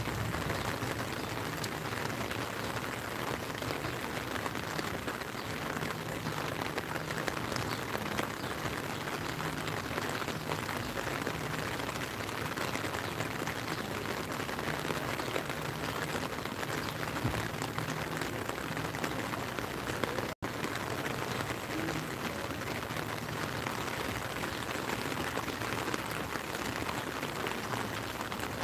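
Steady rain: a dense, even hiss of drops falling on the lake, with close drops pattering on the umbrella overhead. The sound drops out for an instant about twenty seconds in.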